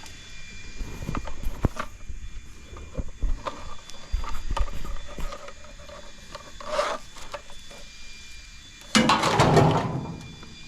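Scrap metal being handled and loaded: scattered knocks and scraping with some dull thuds, then a louder clattering scrape lasting under a second about nine seconds in.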